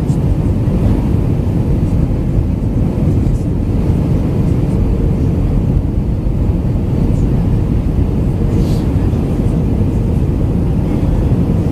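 Steady cabin rumble inside an Airbus A319 with CFM56 engines running, heard from a window seat, with a steady hum riding over the low roar.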